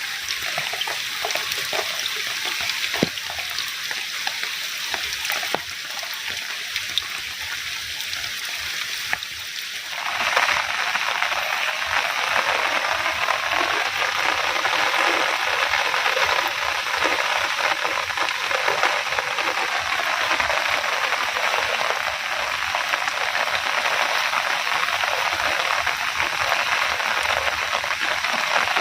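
Food frying in a pan, a hiss with small crackles, while it rains. About ten seconds in, a louder, steady rush of water noise abruptly takes over.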